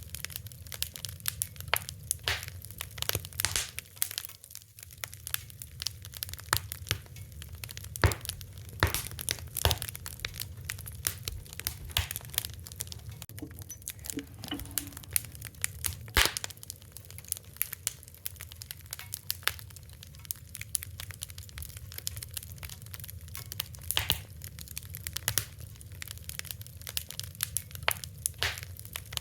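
Wood fire crackling: irregular sharp pops and snaps, a few louder ones standing out, over a steady low rumble of the burning.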